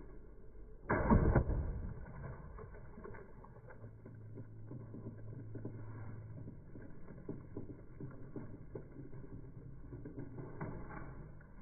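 Toy tractor clattering, with irregular clicks and rattles, a loud short burst about a second in and a low hum for a few seconds in the middle.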